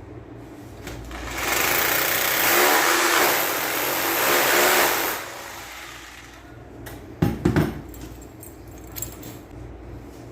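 A motor runs loudly for about four seconds and stops, followed by a few sharp knocks about seven seconds in.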